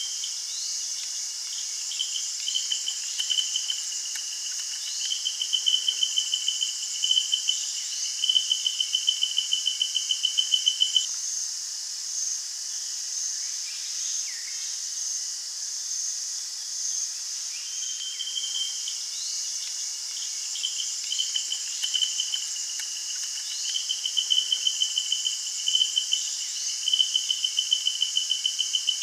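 Chorus of tropical forest insects: a fast pulsing trill that runs in long bouts and breaks off for several seconds in the middle, over a steady high shrill of other insects.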